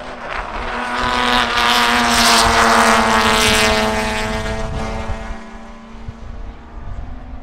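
A piston-engined propeller aircraft flying past with a steady engine note. It grows louder over about two seconds, then fades away by about two-thirds of the way through.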